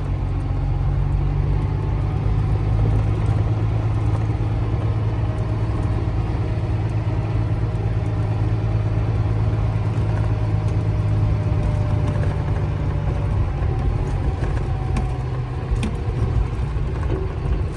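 Steady low drone of a Volvo VNL truck's diesel engine and road noise, heard from inside the cab while driving on a gravel road, with a few faint clicks and rattles.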